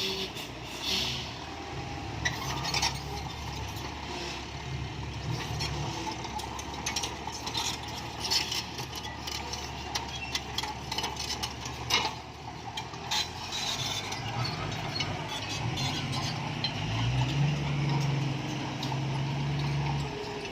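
Isuzu FXZ 360 dump truck running empty: a low, steady diesel engine rumble under many clanks and rattles. Near the end the engine revs up and gets louder.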